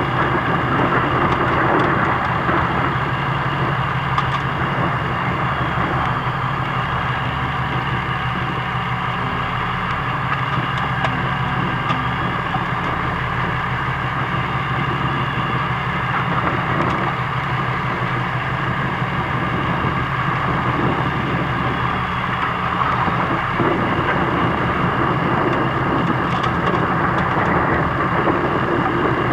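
Fishing boat's engine running steadily, an even drone with no change in speed.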